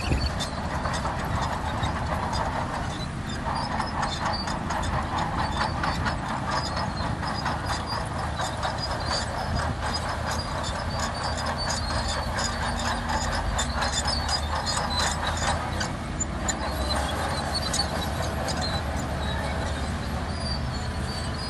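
SHANTUI DH17C2 crawler bulldozer at work: its steel tracks clatter with rapid metallic clicks and squeaks over the steady diesel engine.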